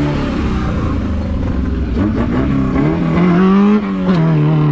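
Off-road competition vehicle's engine revving, its pitch rising about two seconds in and holding high over a steady low rumble.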